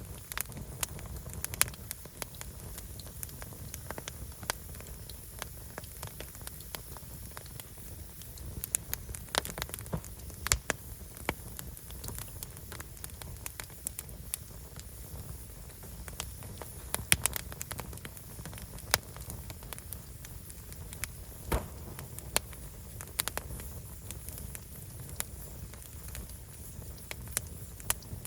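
Wood fire burning, with irregular sharp pops and crackles over a steady low rumble and hiss.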